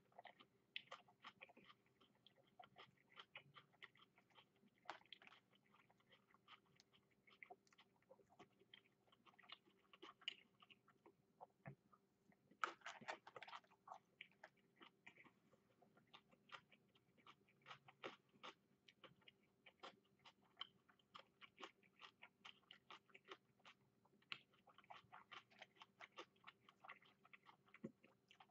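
A person eating takeout food with a fork: faint chewing, with many small sharp clicks scattered through it.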